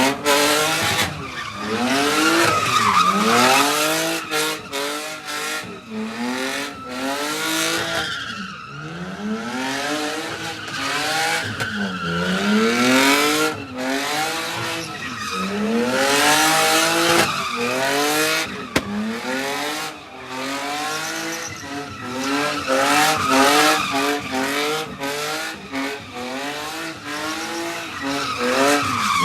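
Car engine revving up and dropping back over and over, each rise a second or two long, with tires screeching, as a car skids at a street car meet.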